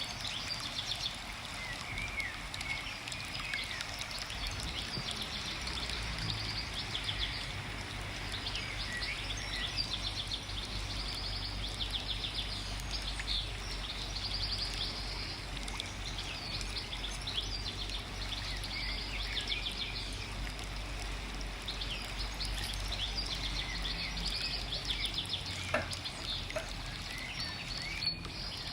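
Forest ambience: many birds chirping and singing over a steady background rush. A low hum comes in about six seconds in and stops a few seconds before the end.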